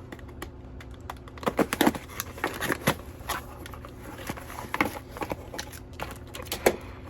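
Packaging and items being handled while unpacking a box: an irregular string of short rustles, crinkles and light clicks.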